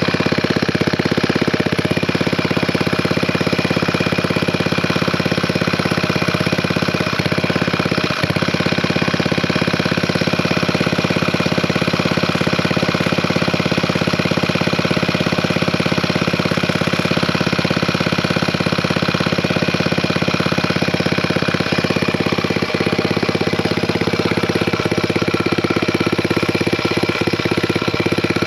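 Villiers Mark 9 stationary engine running steadily with a fast, even firing beat.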